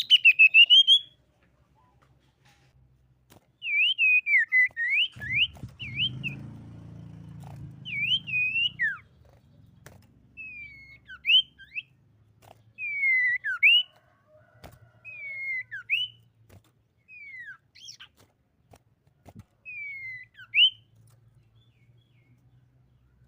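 Common iora singing: short whistled phrases of sliding notes, each dipping down and then sweeping up, repeated every second or two with gaps between. A low rumble sits under the song about five to nine seconds in.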